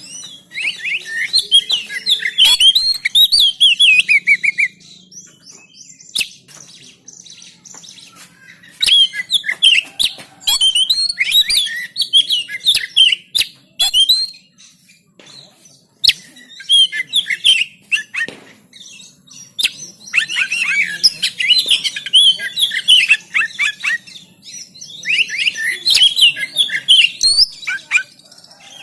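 Oriental magpie-robin (kacer) singing: about five bouts of rapid, varied whistled phrases, each a few seconds long, with short pauses and faint clicks between them.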